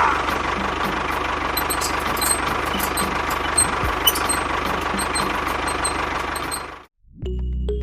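A small engine running steadily with a fine, even knocking, cut off abruptly near the end; music starts just after.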